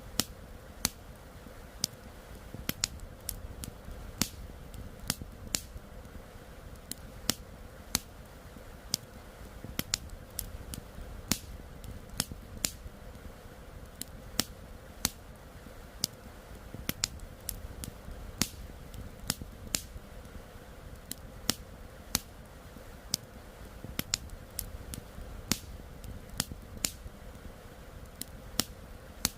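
Wood fire crackling with sharp, irregular pops over a steady low rush, which fits the river flowing alongside.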